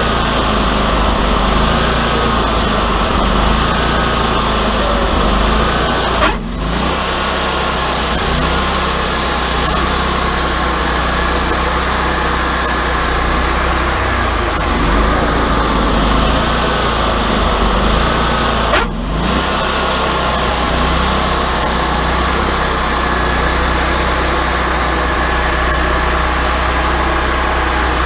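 Wood-Mizer LT40 hydraulic portable sawmill running steadily while edging boards. The sound cuts out for an instant twice, about six seconds in and near nineteen seconds.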